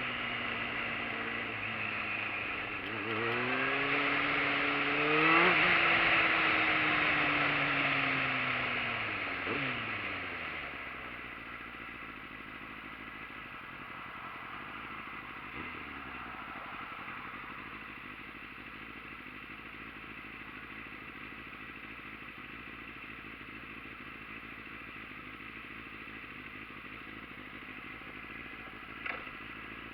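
Motorcycle engine pulling up through the revs for a few seconds, then falling in pitch as it slows. After that comes a quieter steady running noise for the rest, with one sharp click near the end.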